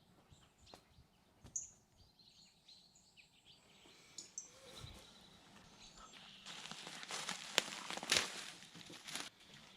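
Faint outdoor ambience with a few short high bird chirps. From about six and a half seconds in, a louder scratchy rasping noise sets in with a couple of sharp knocks.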